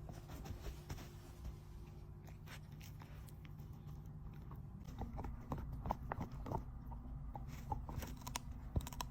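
Australian shepherd puppy chewing a treat: irregular crunches and clicks of teeth, coming thicker from about halfway through, over a low steady hum.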